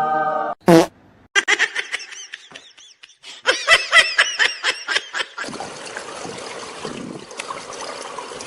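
A person laughing in quick high-pitched bursts, followed by a steady noisy hiss of background sound.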